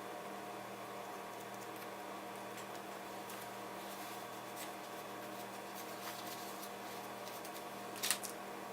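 Faint small clicks and ticks of handling a laptop heatsink while its thermal paste is wiped off, with one sharper click about eight seconds in, over a steady electrical hum.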